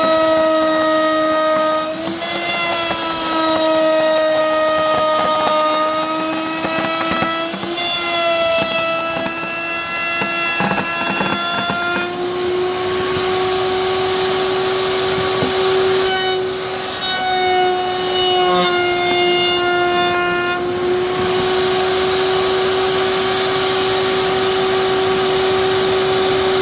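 Woodworking power tool running at high speed and cutting wood: a steady high whine with a noisy edge, its pitch sagging slightly and recovering several times as the cut loads it.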